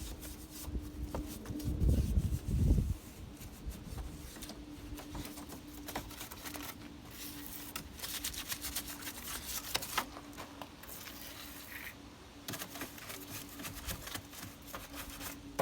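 Stiff detailing brush scrubbing cleaner into grease and dirt on engine-bay surfaces, a run of irregular scratchy strokes. A dull low rumble about two seconds in, and a faint steady hum underneath.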